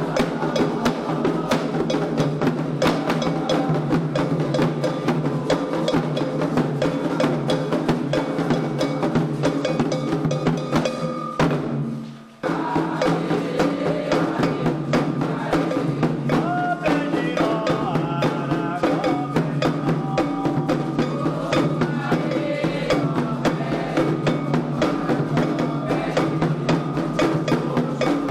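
Candomblé xirê drumming: atabaque hand drums and struck percussion playing a fast, dense rhythm under singing voices. The music drops out abruptly for about a second near the middle, then carries on.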